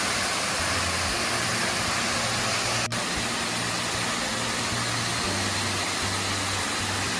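A waterfall's steady roar of rushing water, broken by a brief dropout about three seconds in.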